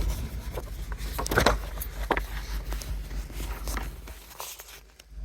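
Footsteps and rustling close to the microphone: irregular clicks and scrapes over a low rumble, which fades away near the end.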